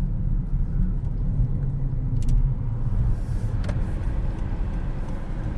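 2025 Honda Civic heard from inside the cabin: a steady low rumble of engine and road noise while the car is under way, with a couple of faint light ticks about two and four seconds in.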